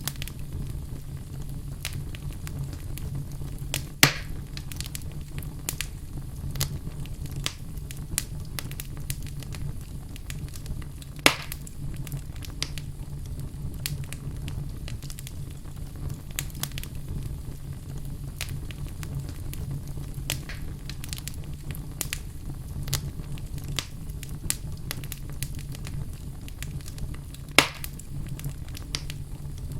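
Wood fire in a fireplace crackling: a steady low rumble with constant small snaps and three much louder sharp pops spread through it.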